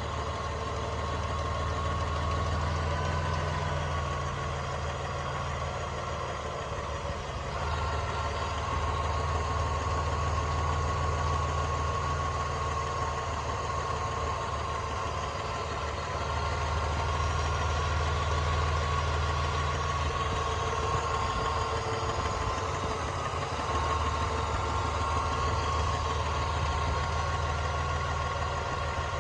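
1999 Dodge Dakota engine idling steadily with a light clicking, its fresh oil dosed with a quart of ATF to quiet the clicking, which is now way down.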